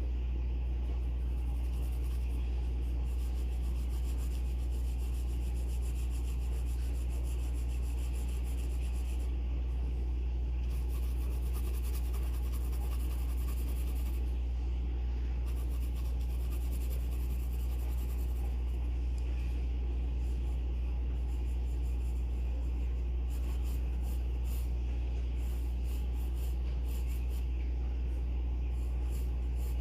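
Graphite pencil scratching across paper in runs of strokes with short pauses, over a steady low hum that is the loudest thing heard.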